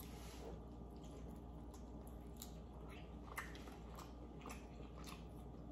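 Close-up mouth sounds of chewing buttered lobster meat: soft wet smacks and scattered short clicks, one a little louder about three and a half seconds in.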